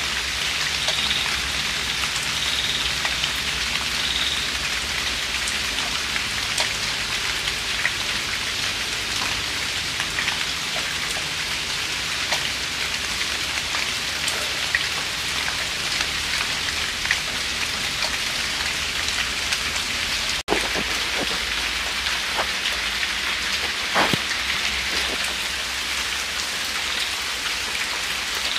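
Steady drizzle falling, an even hiss of rain with scattered single drops ticking, a few louder drops near the end.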